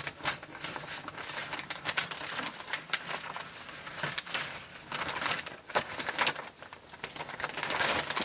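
Plastic vacuum-sealer bag crinkling and rustling as it is handled, with irregular crackles and clicks throughout.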